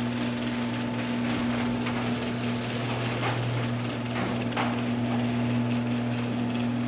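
Genie screw-drive garage door opener running steadily, its motor humming as it drives the door open, with a couple of light clicks from the door midway.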